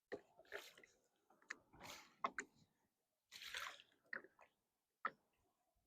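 Kayak paddle strokes in shallow water: a string of faint, short splashes and drips, the longest about three and a half seconds in.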